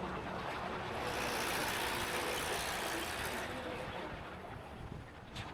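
City traffic and road noise heard from a moving motorbike: a steady rush of engines and wind that swells for a couple of seconds and then eases off.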